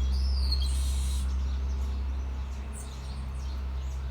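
Birds chirping: a falling whistled note at the start, then scattered faint high chirps, over a steady low rumble.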